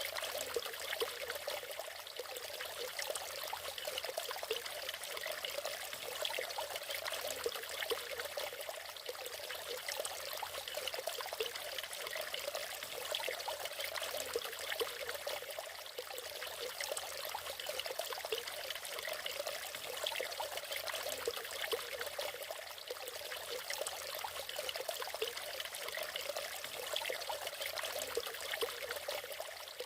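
Small natural waterfall: water splashing and trickling steadily, with a fast flickering splash and no deep rumble.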